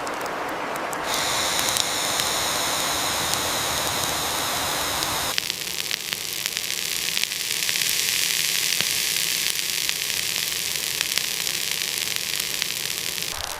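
Newly lit fire burning: a steady hiss with scattered small crackles. The hiss shifts in tone about a second in and again about five seconds in.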